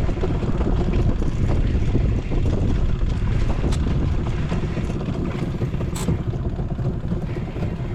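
Strong wind buffeting the microphone: a steady, loud low rumble, with a faint tick about six seconds in.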